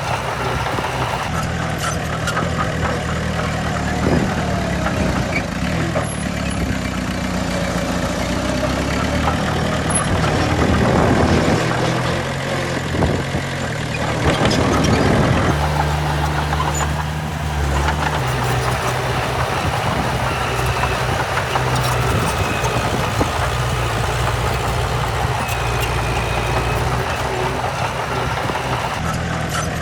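Diesel engines of heavy earthmoving machinery running, with the engine note shifting a few times and a louder, rougher stretch in the middle.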